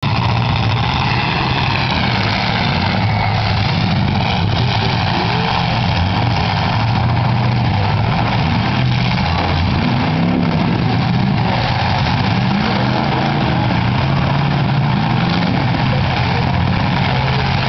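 Several demolition derby car engines running together, a loud steady mix of idling and revving with pitches that rise and fall now and then.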